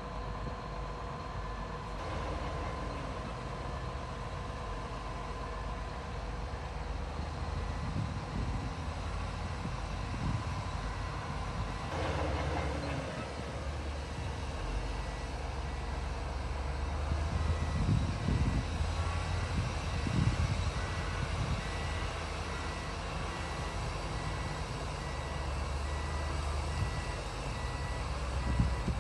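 Heavy diesel earthmoving machinery running steadily, with louder surges and knocks about a third of the way in and again past the middle.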